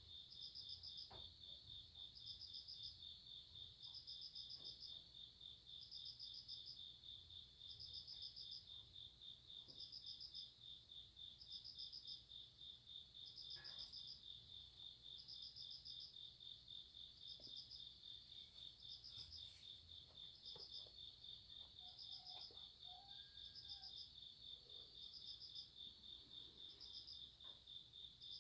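Night-singing grass insects: one cricket trilling steadily on a high, evenly pulsed note, and another chirping in short, slightly higher bursts about every second and a half to two seconds. The sound is faint.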